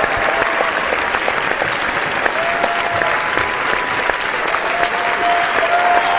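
Audience applauding: many hands clapping in a dense, steady patter with no let-up.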